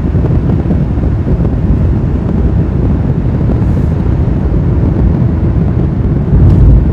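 A vehicle driving at speed: a steady low rumble of road and wind noise, swelling briefly near the end.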